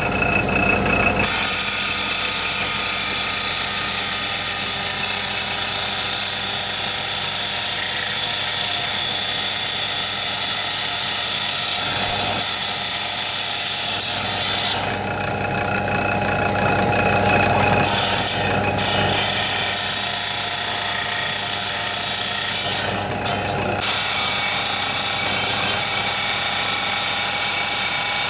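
A small power tool running steadily on hard material, a continuous hissing whir that dips briefly about halfway through and again near the end.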